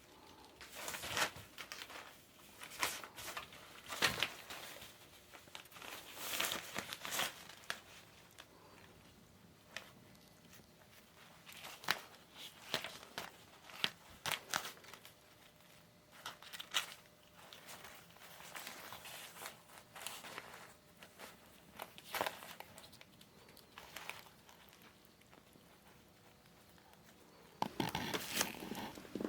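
Crinkling and rustling in irregular bursts, typical of kittens pouncing on and batting a crinkly toy, with a busier stretch near the end.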